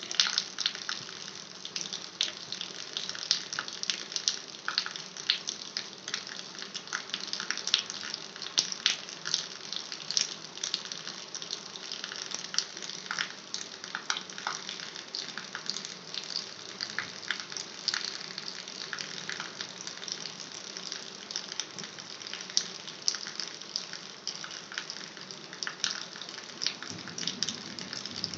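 Running water flowing and splashing steadily, with many small sharp splashes and drips.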